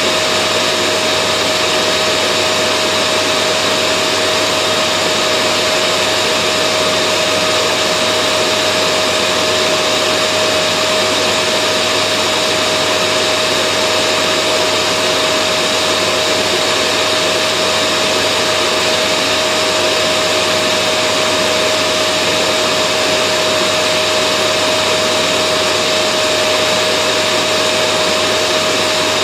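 Vacuum cleaner running steadily: a constant rushing motor and airflow noise with a steady whine, unchanging throughout.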